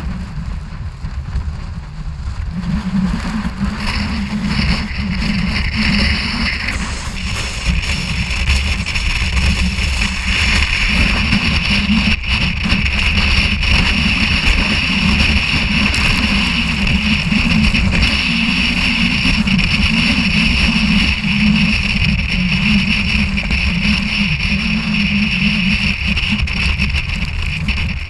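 Storm-force wind buffeting the camera microphone: a constant heavy low rumble, with a higher hiss that builds over the first several seconds and then holds steady.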